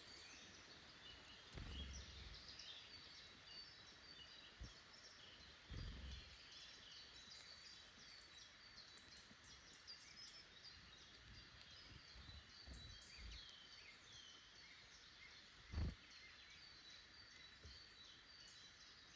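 Faint woodland birdsong: many small birds chirping and trilling in a steady chorus. A few soft, low thumps break in, the strongest about sixteen seconds in.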